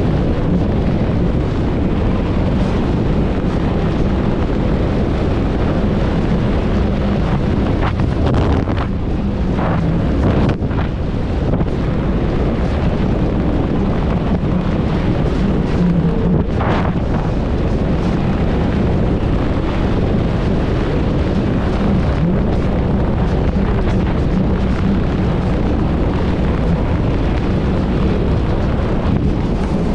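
Heavy wind buffeting the microphone over the steady drone of an inflatable Thundercat boat's 90 hp Evinrude outboard motor running at high speed, with a few brief louder whooshes of water around the middle.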